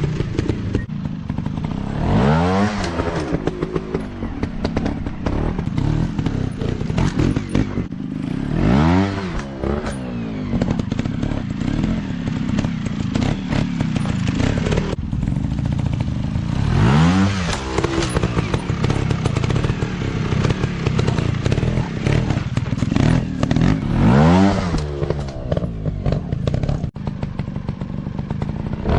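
Dirt bike engine running, revving up and falling back about four times, with the engine note carrying on steadily in between.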